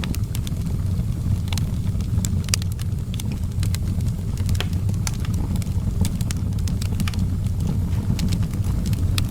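Outdoor wood fire burning with a steady low rumble and frequent irregular sharp crackles and pops.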